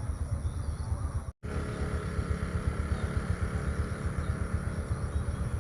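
Outdoor field ambience dominated by a low, unsteady rumble of wind buffeting the microphone, with a few faint chirps high above it. The sound cuts out completely for a split second about a second and a half in.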